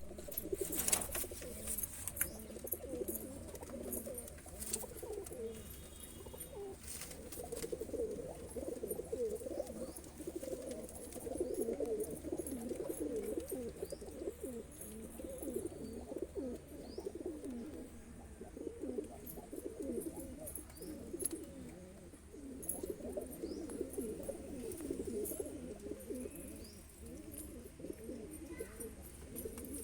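Several Saharanpuri domestic pigeons cooing continuously, their low warbling calls overlapping, with a few sharp clicks in the first seven seconds.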